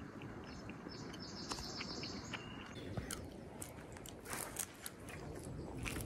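A bird calls with a high, buzzy trill lasting nearly two seconds, starting about half a second in, over quiet woodland ambience. Light scattered clicks and rustles follow in the second half.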